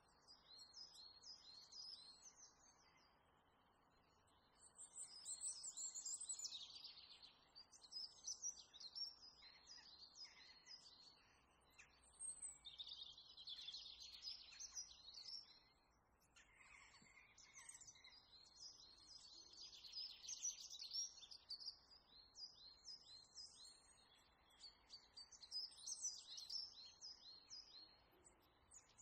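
Faint birdsong: small birds chirping in quick series of short high notes, in bouts a few seconds long with short pauses between.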